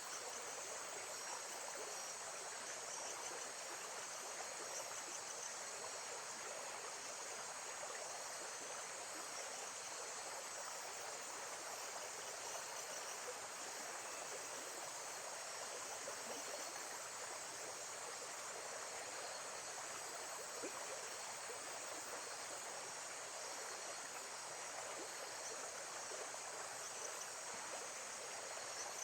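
Nature ambience of steadily flowing water, with a continuous high chirring of insects above it.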